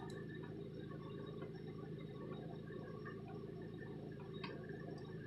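Water heating in a kettle for tea, bubbling and rumbling steadily as it nears the boil, over a constant low hum.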